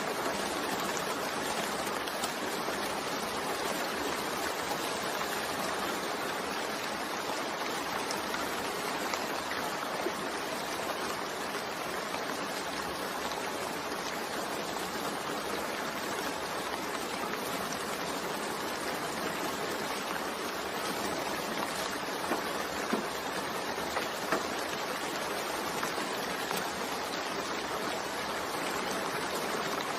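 Steady rain falling: a continuous even hiss with faint ticks of individual drops, and a few sharper drop taps about two-thirds of the way through.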